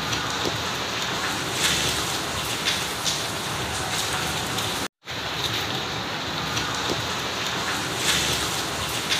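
Steady rain falling on paving and plants, with scattered louder drip and splash ticks. The sound cuts out for an instant about halfway through.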